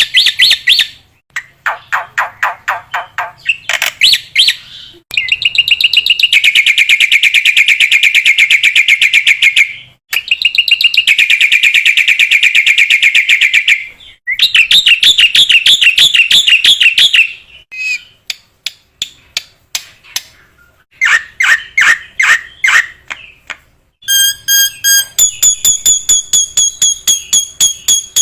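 Black-winged myna (jalak putih) singing: long runs of fast, rattling trills of rapidly repeated notes, broken by short pauses. Near the end come a string of clear, high whistled notes.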